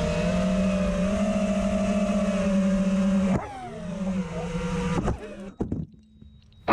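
Mini FPV quadcopter's brushless motors and propellers whining at a steady pitch. A little over three seconds in, the whine drops suddenly and bends up and down in pitch. A few sharp clicks follow, then the sound cuts off to near silence with a faint thin high tone.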